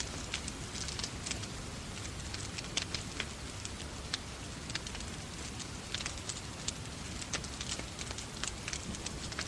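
Wood fire crackling, with irregular sharp pops and snaps several times a second, over a steady hiss of falling rain.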